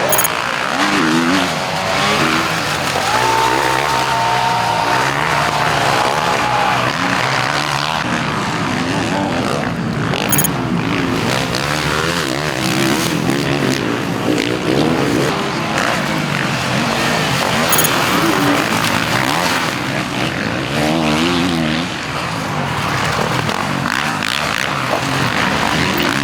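Several 450cc four-stroke motocross bikes racing, their engines revving up and down through the gears.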